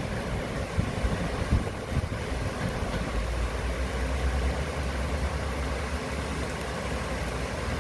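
Steady rush of heavy rain and rushing water near a waterfall, with a low rumble underneath and a few louder gusts in the first two seconds.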